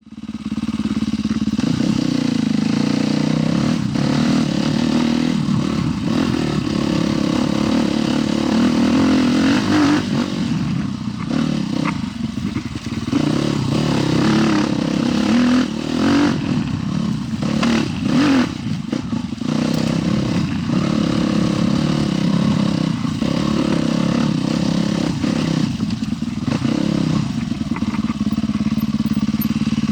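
Husqvarna TE 310 dual-sport motorcycle engine running, steady for most of the time, with the throttle rising and falling through the middle.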